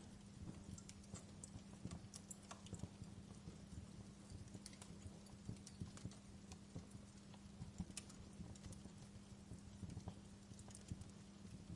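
Wood fire crackling in a fireplace: irregular sharp pops and snaps over a steady low background, all fairly faint.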